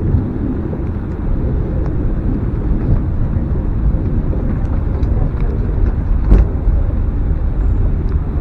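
Open-top Gelmerbahn funicular car running on its rails, a steady low rumble, with a single knock about six seconds in.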